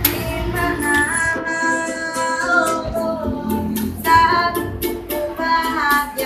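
A child busker singing a melody in a clear, held voice over a steadily strummed string accompaniment.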